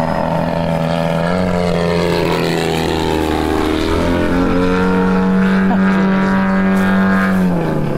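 The 100cc gas engine of a giant-scale RC aerobatic airplane running in flight, its pitch rising and falling with the throttle. It climbs about a second in, eases off around three seconds, then holds high before dropping near the end.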